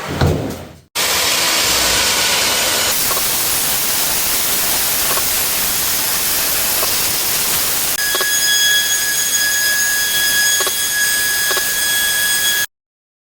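Belt sander with a 60-grit belt running over a wooden board, a steady loud hiss; from about eight seconds in a high whine rides on top of it. It cuts off abruptly near the end, after a brief low thump right at the start.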